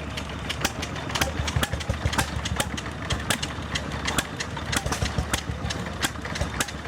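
An engine idling unevenly, with irregular sharp ticks.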